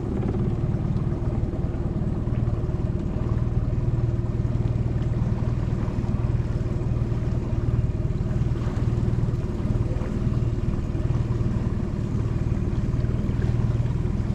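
Small outboard motor on a tiny boat running steadily at low, even speed.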